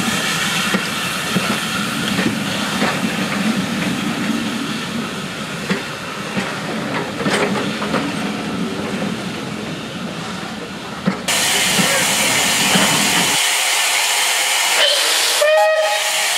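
Carriages of a passenger train rolling past, wheels clicking over rail joints. About eleven seconds in this gives way to a steady hiss of steam from a standing steam locomotive, with a brief tone just before the end.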